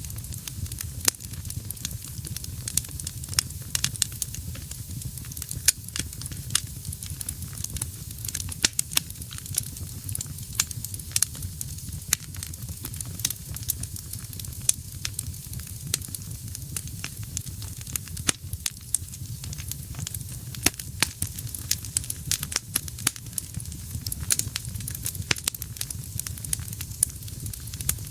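Wood fire burning in a fireplace: frequent sharp irregular crackles and pops over a steady low rumble of the flames.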